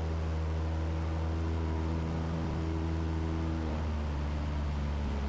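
Cessna 172's piston engine and propeller droning steadily in flight at constant power, a smooth even hum with several steady tones.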